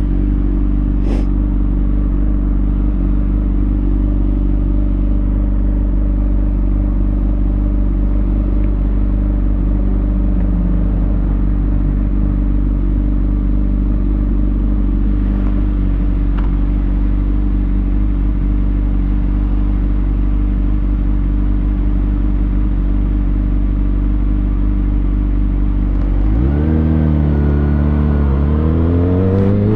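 2020 Kawasaki Ninja ZX6R's inline-four, on a Lextek SP7C carbon exhaust with decat headers, idling steadily at low revs. About 26 seconds in it revs up as the bike pulls away, its pitch rising, dipping once at a gear change and rising again.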